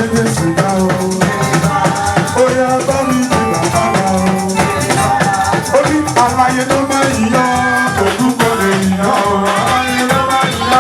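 Instrumental church band music with shakers rattling steadily on the beat under sustained melodic lines.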